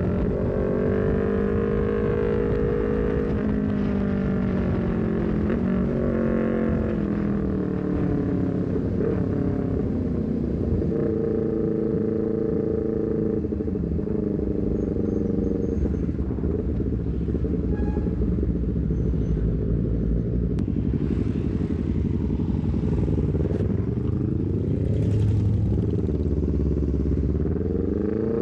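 Honda CBR250RR motorcycle engine running through a Leovince GP Corsa aftermarket exhaust while riding, the revs rising and falling repeatedly with gear changes, with a run of quick rising revs near the end.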